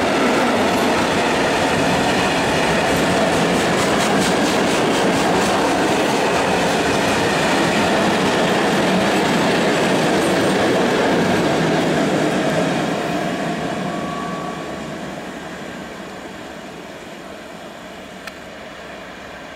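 Freight train of open-top wagons rolling past at close range: a steady rumble and clatter of wheels on the rails. It fades away after about twelve seconds as the last wagon pulls off into the distance.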